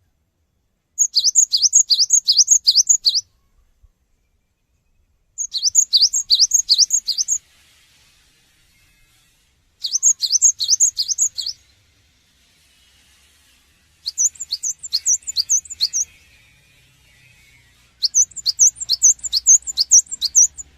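Cinereous tit (gelatik batu) singing: five phrases of rapidly repeated high notes, each note sliding downward, about three notes a second, each phrase lasting about two seconds with short pauses between.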